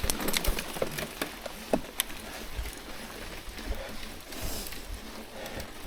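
Mountain bike riding over a wet trail: a steady rolling noise with scattered sharp clicks and knocks from the bike, most of them in the first two seconds.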